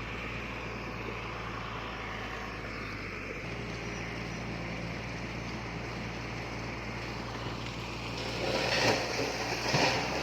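Diesel engine of heavy earthmoving machinery running steadily, its note shifting a little about a third of the way through. Near the end, louder, uneven clattering and knocking comes in over the engine.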